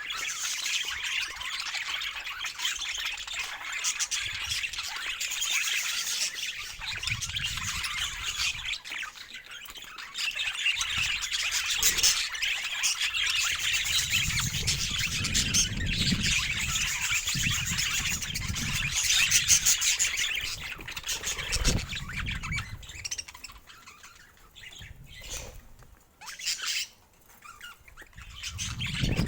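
Budgerigars chattering: a dense, continuous mix of squawks, chirps and warbling that thins out near the end.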